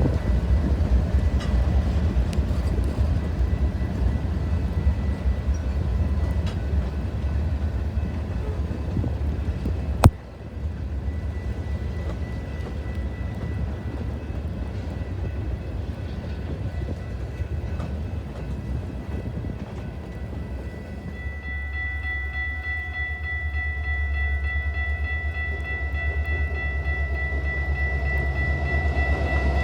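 Train rumbling past, with a single sharp click about ten seconds in. From about two-thirds of the way through, a locomotive horn sounds a long, steady chord.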